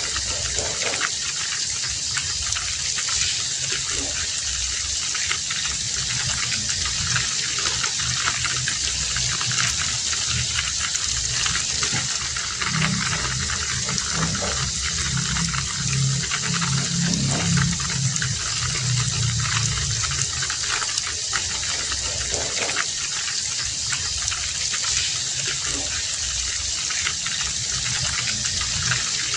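Heavy rain falling steadily in a dense, even hiss, with a low rumble swelling for several seconds about halfway through.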